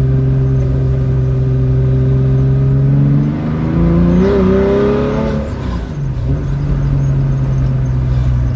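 Rebuilt 3.0-litre air-cooled Porsche 911 flat-six with individual throttle bodies, heard from the cabin: it runs at steady revs, climbs in pitch about three seconds in, drops back about six seconds in, and then runs steady again.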